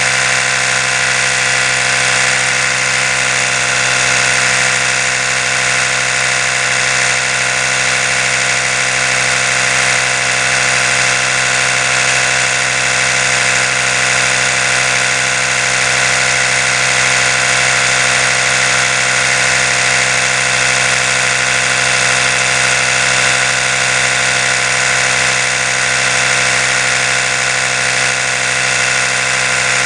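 Oral-B electric toothbrush running, a steady, unchanging motor buzz.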